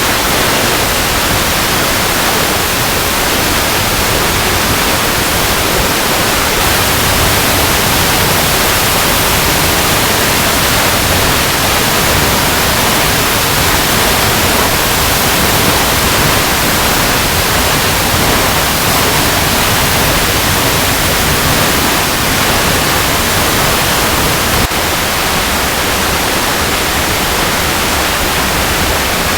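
Water cascading over rocks: a loud, steady rushing hiss of falling water, strongest in the treble, with a slight drop in level about twenty-five seconds in.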